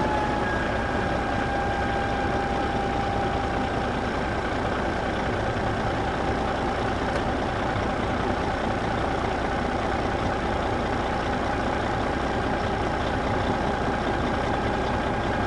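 Small electric motor of a homemade mini tractor running steadily, a constant high whine over a rattly mechanical hiss, its pitch dipping slightly and settling in the first second after start-up.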